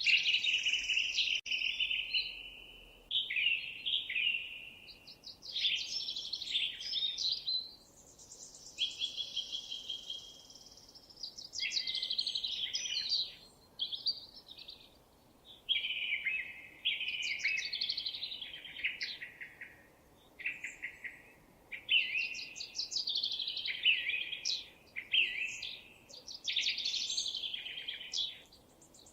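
Songbird singing: a run of varied phrases of quick, high chirping notes, each a second or two long, with short pauses between them.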